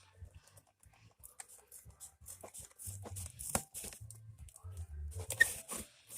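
Irregular scraping, snipping and clicking of material being cut and handled by hand.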